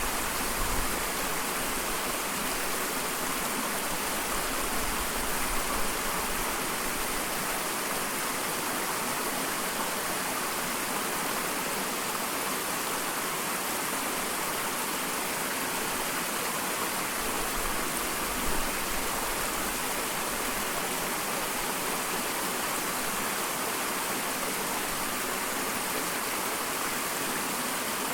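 Small waterfall: water pouring and splashing steadily in a continuous rushing hiss.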